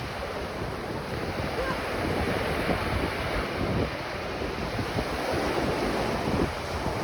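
Ocean surf washing onto a beach, a steady churning wash with low rumbling gusts of wind buffeting the microphone.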